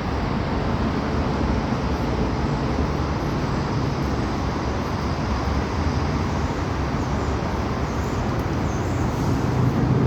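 Steady outdoor background noise, a low, even rumble with no clear bird calls standing out.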